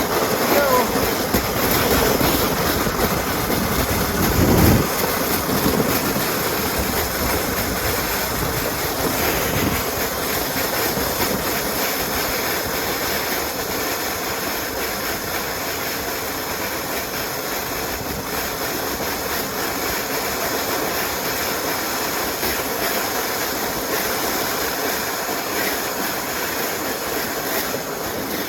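Sled sliding fast over ice-crusted snow: a continuous scraping hiss, like sliding on a sheet of ice.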